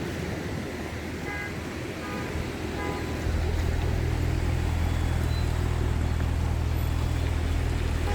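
An overturned truck's vehicle alarm going off in short, separate beeps, a few in the first three seconds. A steady low rumble comes in about three seconds in and stays.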